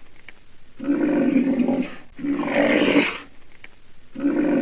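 An animal calling: three long, steady, pitched calls, each over a second, with short gaps between them, the third starting near the end.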